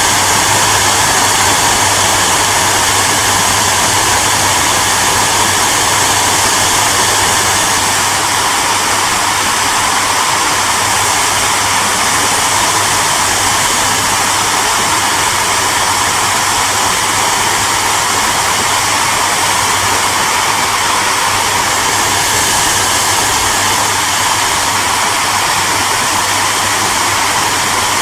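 Hair dryer running continuously: a steady rush of blown air with a constant low motor hum underneath.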